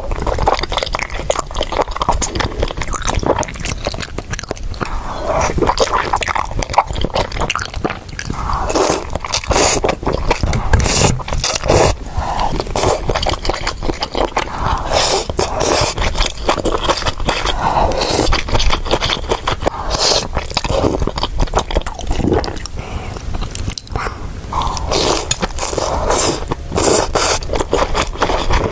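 Close-miked eating: a person chewing and biting crunchy food, with dense crackling and crunching clicks throughout.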